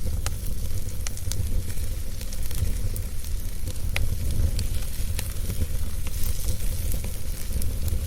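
Wood fire burning in a fireplace: a steady low rumble with irregular crackles and sharp pops of burning wood.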